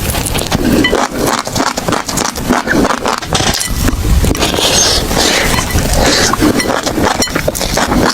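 Close-miked chewing of crunchy food: a dense, continuous run of sharp crackles and crunches as it is bitten and ground between the teeth.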